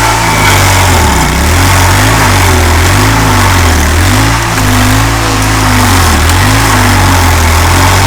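A 27-horsepower stump grinder's engine runs loudly. Its pitch sags and recovers several times.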